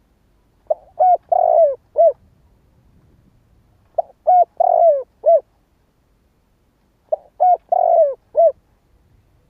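Spotted dove cooing its song three times, about three seconds apart. Each phrase is a quick run of four or five short coos, with one longer note that falls in pitch near the middle.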